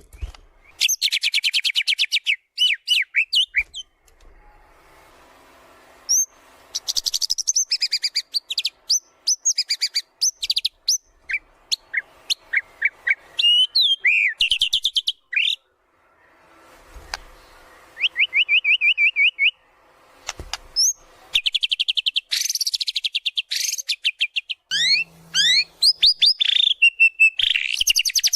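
White-rumped shama singing vigorously, running through a varied song of rapid repeated notes, trills and whistled glides with short pauses between phrases: a bird in full song showing its repertoire of mimicked calls.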